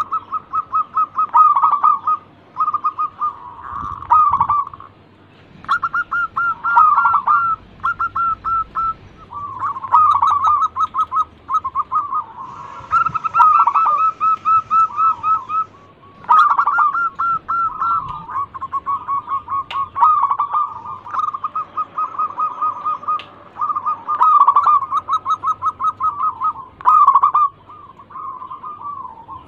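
Local zebra doves (perkutut) singing: runs of quick, stuttering coos, one after another with brief pauses, over a faint steady low hum.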